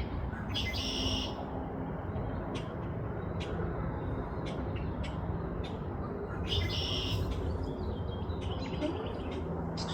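Bird calls: a short, high call about a second in and another near seven seconds. Scattered sharp chip-like clicks fall between them, over a steady low rumble.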